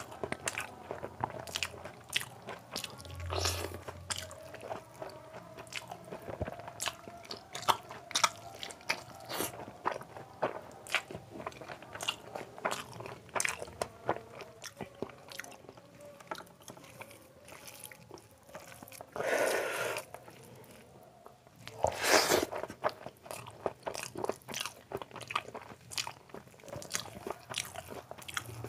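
Close-miked chewing of water-soaked rice (panta bhat) with fried sides, eaten by hand: a rapid run of wet mouth clicks and crunches. Two longer, louder noisy stretches come about two-thirds of the way in, the second the loudest.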